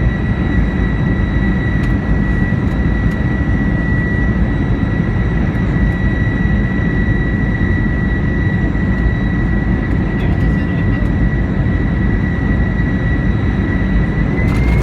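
Inside the cabin of an Airbus A320 jet airliner: the engines' steady rumble with a steady high whine over it. Near the end the whine and further tones begin to rise in pitch.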